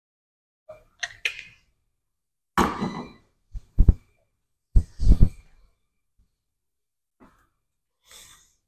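A person breathing hard and exhaling heavily, mixed with a few short, sharp thuds, the sounds of a lifter recovering between leg exercise sets.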